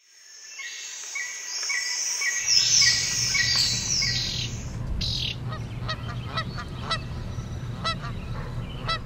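Bird calls: high chirping and falling whistles, then short honking calls in quick succession, over a low steady rumble.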